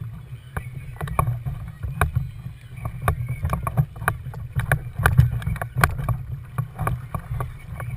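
Water sloshing and slapping against a kayak's hull, with many irregular small clicks and splashes over a steady low rumble.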